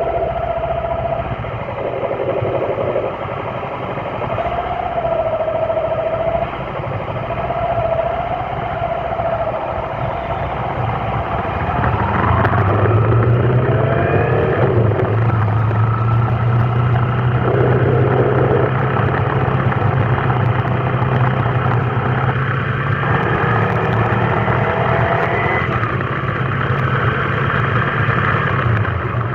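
Road traffic: vehicle engines running and revving, with shifting engine pitches. About halfway through, a steady low engine drone sets in, with rising and falling revs over it.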